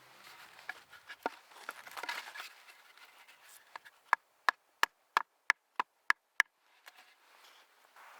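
Wood being struck: a couple of seconds of handling and rustling, then a run of about eight sharp knocks, roughly three a second.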